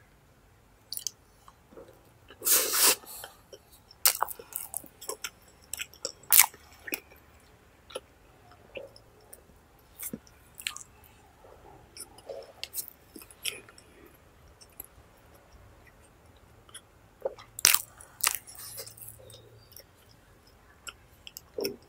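Close-up eating sounds of a man chewing char siu bao (barbecue pork bun): irregular sharp mouth clicks and short chewing bursts, busiest near the start and again near the end.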